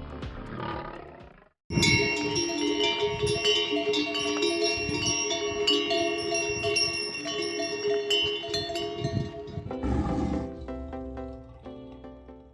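A recorded animal roar in the first second and a half, then background music, with a second roar about ten seconds in.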